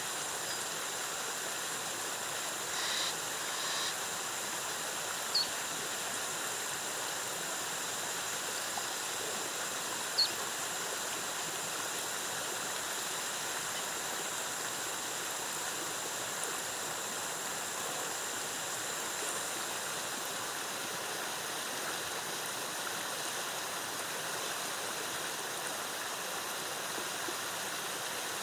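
Jungle waterfall's steady rush of cascading water. Over it run a thin, steady high-pitched whine that fades out about two-thirds of the way through, and a few short high chirps in the first ten seconds.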